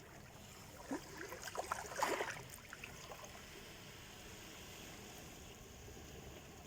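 Small sea waves breaking on the shore: a splashing, fizzing burst about a second in, loudest around two seconds, then a steady wash of surf.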